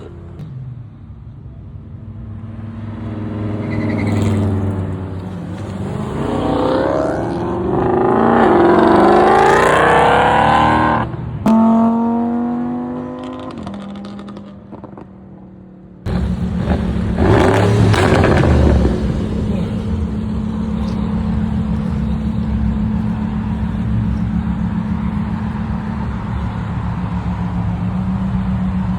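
Car engines: one revs and accelerates, its pitch climbing for several seconds before cutting off about eleven seconds in. Later a loud engine cuts in abruptly with a sharp rev and then runs steadily with a low drone.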